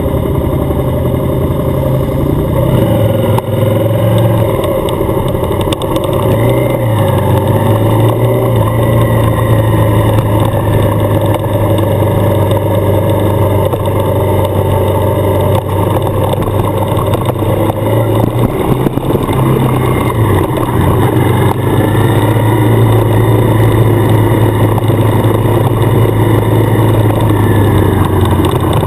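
Suzuki motorcycle engine running steadily under way on a gravel road, heard from the rider's own bike. Its pitch drops and picks up again a few times. Road and wind noise run underneath.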